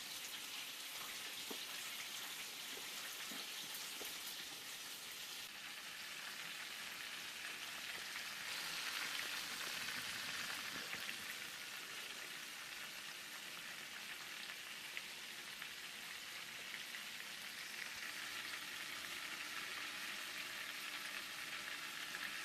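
Floured chicken breasts frying in oil on low heat: a steady sizzle that grows a little louder about eight seconds in, then settles.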